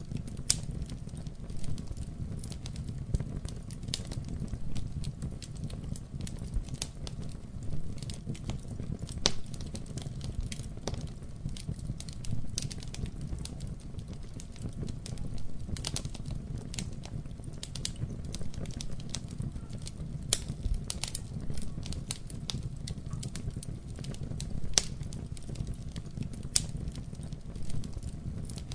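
Wood fire in a fireplace burning with a steady low rumble and frequent sharp, irregular crackles and pops.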